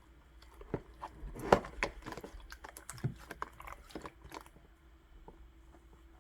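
Elmer's glue slime being pressed and squished by hand, giving irregular sticky clicks and small pops. The loudest pop comes about a second and a half in, and the clicks thin out near the end.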